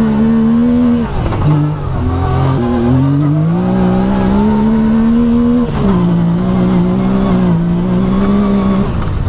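Off-road race car engine running under load, heard from inside the cockpit. About a second in the revs drop, then climb back up and hold high. A little past the middle they ease down and hold steady.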